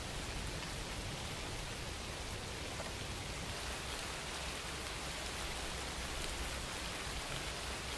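Steady rain falling, an even hiss of rain with no breaks or distinct events.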